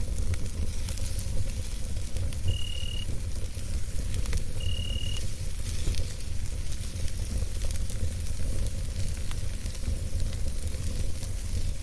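Campfire burning: a steady low rumble with scattered small crackles and pops. Two short, steady high tones sound about two seconds apart a few seconds in.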